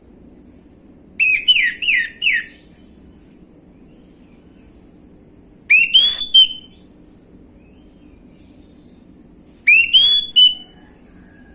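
Orange-headed thrush singing three short phrases of clear whistled notes a few seconds apart: first a quick run of four falling notes, then two phrases that open with a rising whistle followed by a couple of short notes.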